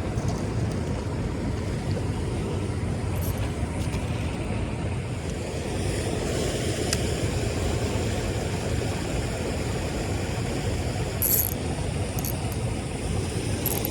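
A steady low rumbling noise throughout, with a few brief faint high ticks near the end.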